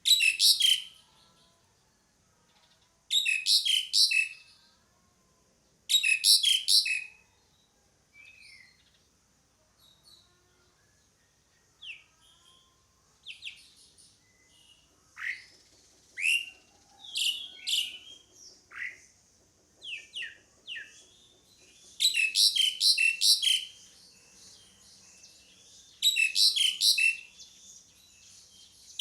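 Asian pied starling (jalak suren) calling: loud bursts of rapid, harsh chattering notes about a second long, repeated every few seconds, with scattered single rising whistled notes through the middle stretch.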